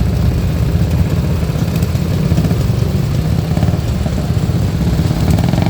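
Motorcycle engine running steadily at low revs, a dense low pulsing with no revving up or down.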